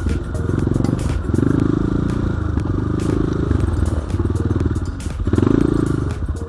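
BSE J1 enduro dirt bike engine running under the rider, rising and falling in repeated surges of throttle, with scattered knocks and clatter from the bike over rough ground.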